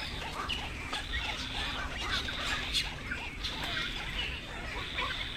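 Many birds calling at once, a busy chatter of short, overlapping calls with no single one standing out, over a steady high hiss.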